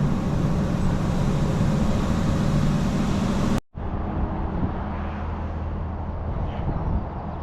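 Heavy lorry driving along the road, a steady mix of engine and road noise. Just past halfway the sound cuts abruptly to a slightly quieter steady engine note with a low hum.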